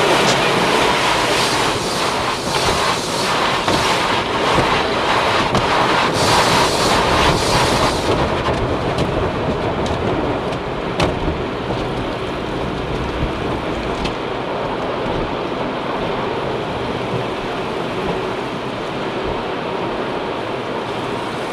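Automatic car wash spraying the car, heard from inside the cabin: a loud, steady rush of water hitting the body, with many sharp hits in the first several seconds. About eight seconds in it turns duller.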